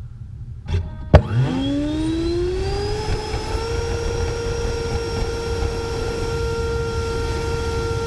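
Electric ducted fan of an HSD 105mm Super Viper RC jet spooling up: a sharp click about a second in, then a rising whine that settles into a steady high-power whine by about three and a half seconds for the takeoff run.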